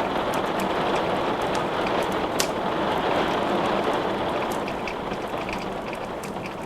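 Steady rain hissing, with the sharp crackles and pops of burning wood in a fireplace scattered through it; one louder pop comes about two and a half seconds in.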